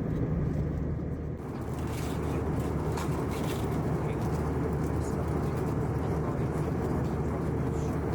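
Steady jet-engine and airflow drone inside an Airbus A321 cabin: a constant low hum under a broad hiss, with the hiss growing brighter about a second in.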